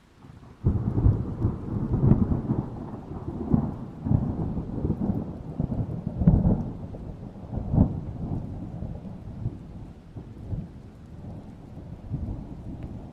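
Thunder breaks in suddenly about a second in and rolls on as a deep rumble. It swells several times before slowly dying away, with rain falling.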